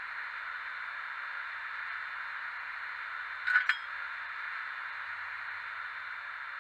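Sound decoder of a Fleischmann N-gauge BR 182 Taurus model playing a steady electric-locomotive hum with a hiss through its tiny speaker. Two sharp clicks come close together about three and a half seconds in.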